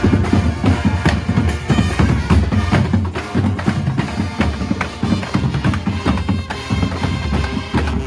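Cape Minstrel street band playing, with a busy drum section and a heavy bass drum driving the beat under a melody.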